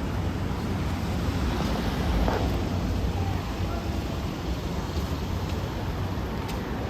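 Wind buffeting the phone's microphone: a steady, low, noisy rumble.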